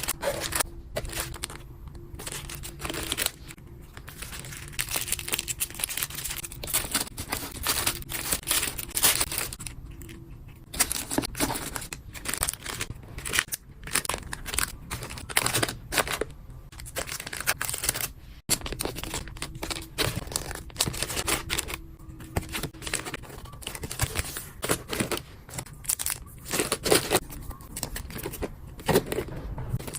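Hands packing a parcel: plastic packaging and wrappers crinkling and rustling, with tearing and small snaps as items are handled, in an irregular run with brief pauses.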